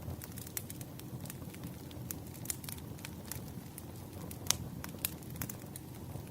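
Wood fire crackling in a fireplace: a steady low rumble of burning with irregular sharp pops and snaps, one louder pop about four and a half seconds in.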